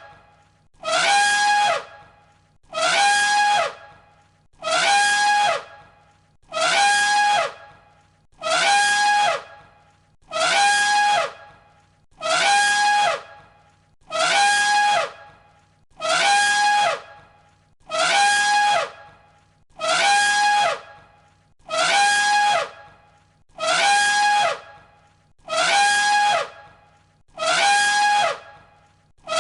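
Elephant trumpeting: one short call of about a second, repeated identically about every two seconds as a looped sample.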